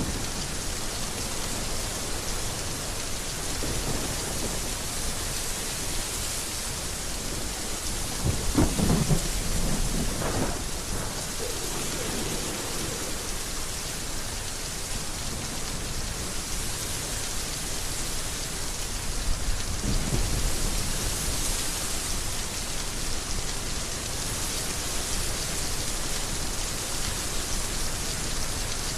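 Steady heavy rain with low rolls of thunder, one swelling about nine seconds in and another about twenty seconds in.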